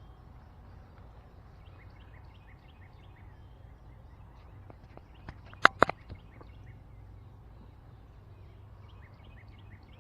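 Small birds chirping repeatedly in the background at a campsite in the morning, with two or three sharp clicks a little past the middle.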